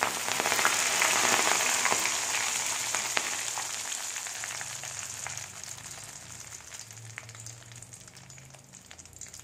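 Curry leaves sizzling as they hit hot oil in a steel pan: loud at once, then dying down steadily over several seconds as the leaves crisp.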